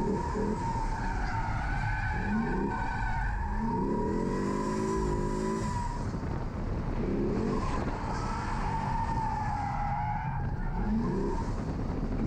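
C6 Corvette's LS V8 revving up and falling back in repeated bursts during a drift run, with tires squealing in a long wavering howl as the car slides.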